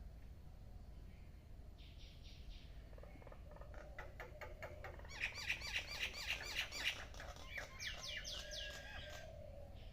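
Martins calling: a brief call, then a run of rapid chirps and chattering that is loudest about five to seven seconds in, ending with a few quick down-slurred notes, over a steady low hum.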